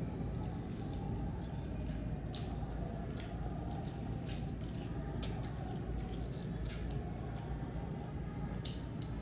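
Crisp bites and crunchy chewing of unripe green mango slices close to the microphone, heard as irregular sharp crunches over a steady low hum.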